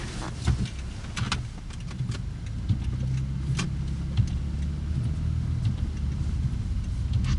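Car engine running with a steady low hum, with a few sharp clicks and knocks scattered through.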